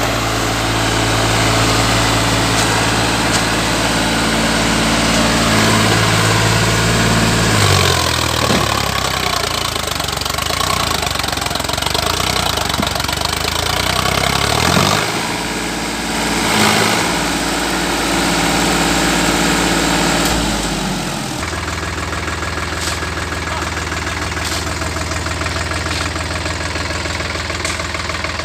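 Sonalika Sikandar DI 50 RX tractor's diesel engine running hard while stuck in mud, its speed dropping and climbing again several times. About three quarters of the way through it settles into steadier, quieter running.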